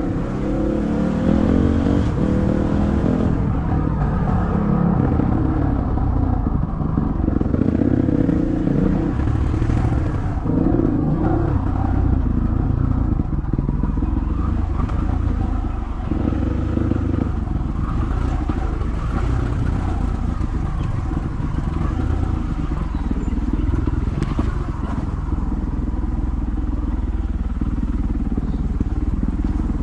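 Dirt bike engine running under load on a trail, its pitch rising and falling with the throttle.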